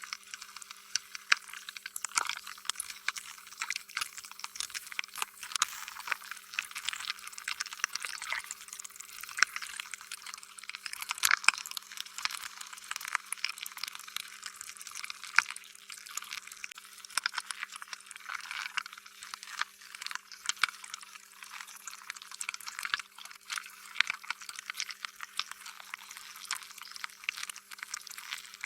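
Slime being squished and stretched by hand: a continuous stream of irregular wet, sticky clicks and pops.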